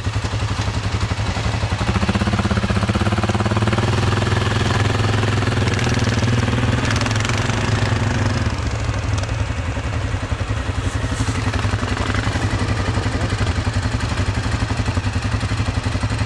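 ATV engine running steadily as the quad rides a trail, with clattering from the machine. The engine note is fuller for several seconds in the middle.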